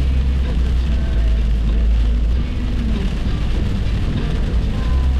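A car driving at highway speed: a steady, loud low rumble of road and engine noise.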